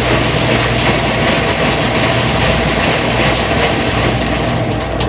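Loud, steady machine rumble with a low hum and a dense whir, running without a break.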